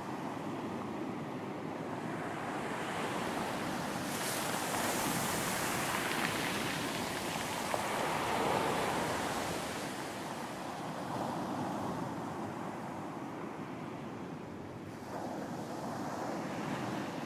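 Ocean surf on a beach: a wave breaks with a hiss about four seconds in and swells to its loudest a few seconds later, then a second wave comes in near the end.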